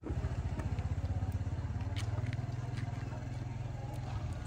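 Small motorbike engine running steadily, a low rapid firing pulse, with a few faint ticks.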